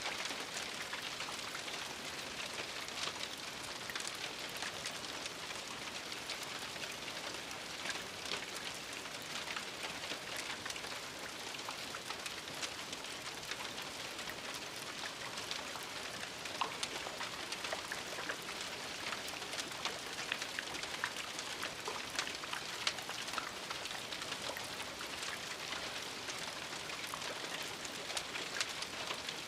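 Gentle steady rain with no thunder, a soft even hiss scattered with the ticks of individual drops striking a surface.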